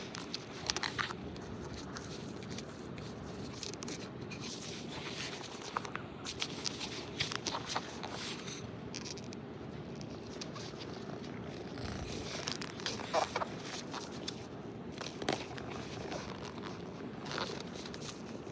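A cat purring steadily, with scattered short scratches and clicks on top.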